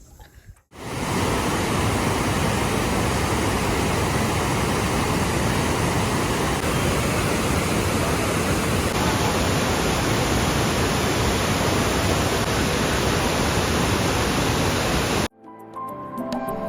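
Waterfall rushing: a steady, loud wash of falling water that cuts off suddenly near the end, where background music with plucked notes takes over.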